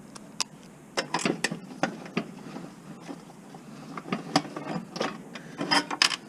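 Hand tools working on a table saw being dismantled: irregular metallic clicks and clanks, in clusters about a second in, around four seconds and again near the end.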